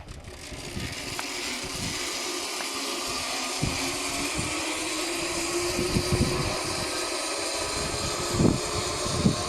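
Zipline trolley pulleys running along the steel cable: a steady whirring hiss that grows gradually louder, with a faint tone rising slightly in pitch and a few low knocks.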